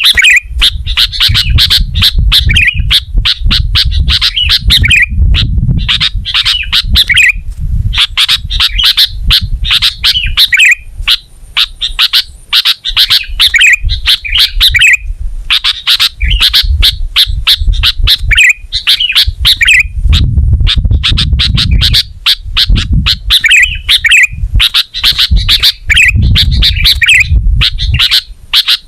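Sooty-headed bulbul (kutilang) singing loudly in repeated short warbled phrases every second or two, with rapid sharp chips between them, over a patchy low rumble.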